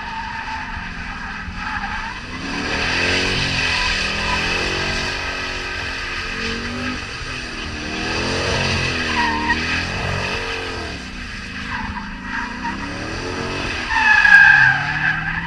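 Dodge Charger engine revving up and down over and over while its spinning tires squeal, as in a burnout or donuts. The tire squeal gets louder near the end.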